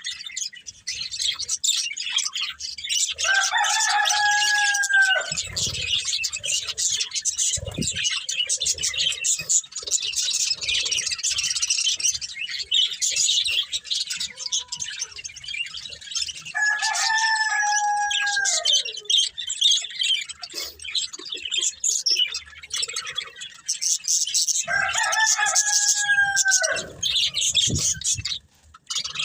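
Budgerigars chattering and chirping continuously. Three times over the chatter a rooster crows, each crow about two seconds long, holding its pitch and then dropping at the end.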